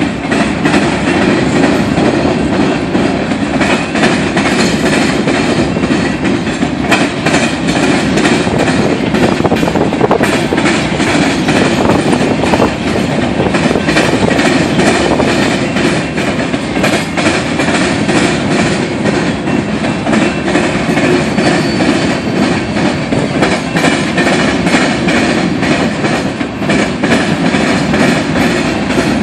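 Freight train of CSX ballast hopper cars rolling past, a steady loud rumble with the wheels clicking over rail joints.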